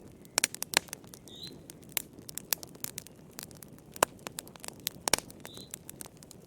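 Wood fire crackling in a fireplace: irregular sharp pops and snaps over a low steady rush. A short high chirp sounds twice.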